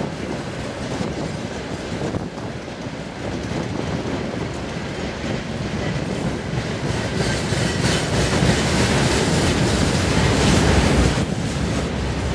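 Freight train wagons (tank cars, then boxcars and gondolas) rolling past, their steel wheels rumbling and clattering on the rails, growing louder in the second half.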